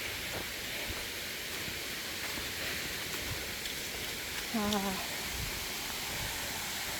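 Steady rushing hiss of water running over an old mill dam, with a brief murmured hum from a person about four and a half seconds in.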